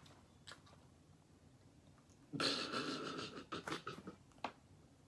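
A person's breathy exhale lasting about a second, followed by a few short, soft mouth clicks.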